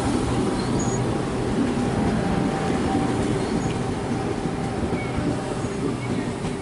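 Sydney Trains Tangara electric multiple unit running past on the rails: a steady, dense rumble with a low hum, easing a little near the end.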